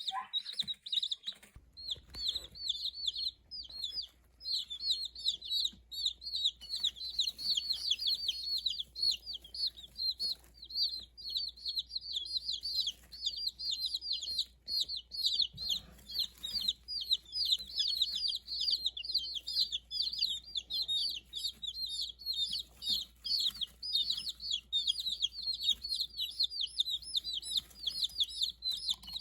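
A brood of black Jersey Giant chicks peeping nonstop, many short high cheeps overlapping one another. A faint steady low hum runs underneath from about a second and a half in.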